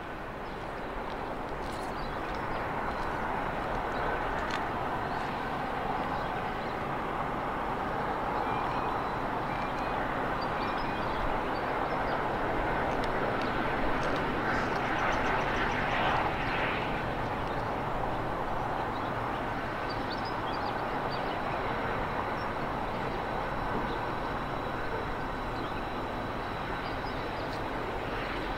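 Distant drone of the diesel locomotives hauling a loaded coal train up the bank, a steady rumble that swells a little toward the middle, with a few bird chirps.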